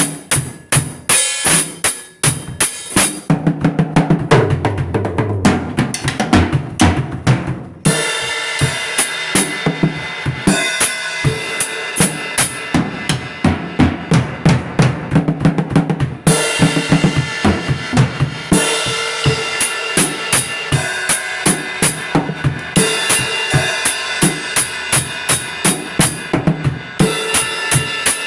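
Music driven by a drum-kit beat: bass drum, snare and cymbals in a steady rhythm over pitched instruments. The cymbals drop out for a few seconds twice, leaving the low drums and bass.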